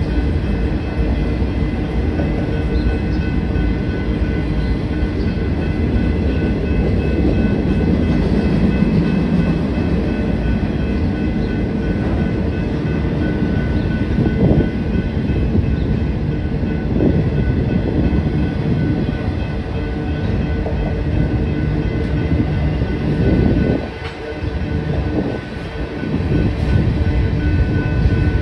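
Freight train rolling past a grade crossing: a steady rumble and clatter of steel wheels on the rails, with faint high ringing tones above it. The sound dips briefly about four seconds before the end, then returns.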